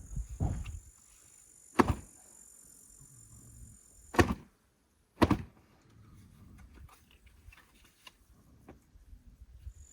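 Three sharp knocks, about 2 s, 4 s and 5 s in, with a few softer thuds at the start, over a steady high chirring of insects that stops about halfway through.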